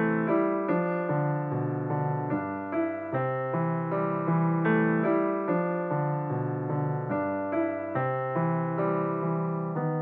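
Background piano music: notes and chords struck at an even pace, about two a second, each one fading before the next.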